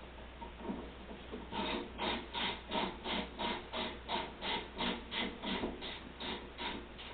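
A 3/8-inch drive ratchet turning a 1/2-inch socket on an extension, undoing the bolt inside a washing machine agitator. It makes about fifteen quick rasping ratchet strokes, roughly three a second, which begin about a second and a half in and stop just before the end.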